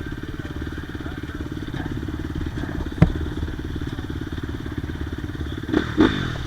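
Yamaha YZ250 two-stroke engine running steadily with an even, rapid pulsing. A single sharp knock comes about halfway through, and two short louder sounds come near the end.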